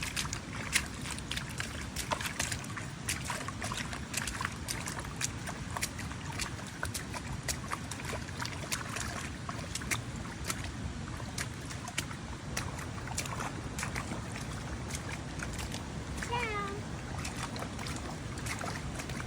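Steady low rumbling noise with frequent small clicks and taps, and one short animal call that dips in pitch, about sixteen seconds in.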